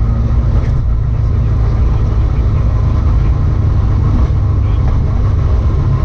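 Rally car's engine running at a steady pitch, a loud low drone with road and tyre noise over it.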